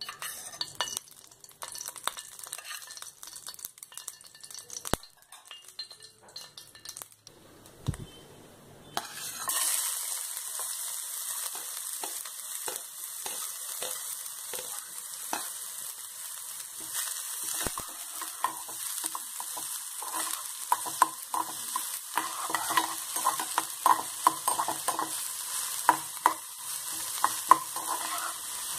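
A few small knocks and clicks, then about nine seconds in chopped onions start sizzling in hot oil in a small non-stick pan, a steady hiss. Over the second half a wooden spatula stirs them, with quick repeated scrapes and taps against the pan.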